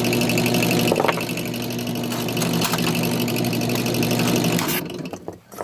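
Electric drill press motor running with a steady hum, then switched off about four and a half seconds in, followed by a few light clicks.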